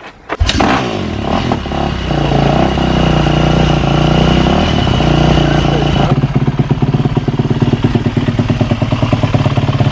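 A single-cylinder four-stroke motorcycle engine starting up and running at a raised, steady speed, then dropping about six seconds in to a lumpy, pulsing idle.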